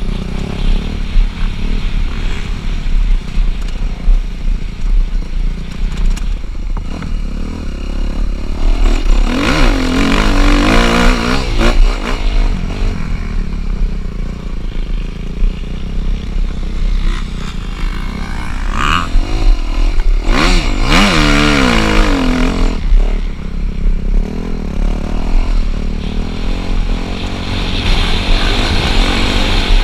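Dirt bike engines running, revving up and down in two surges, about ten seconds in and again about twenty seconds in, over a steady low rumble.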